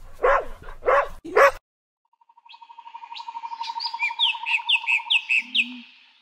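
A dog barking, three quick barks in the first second and a half. After a short pause a rapid, even trill starts and a run of short, falling bird-like chirps plays over it to near the end.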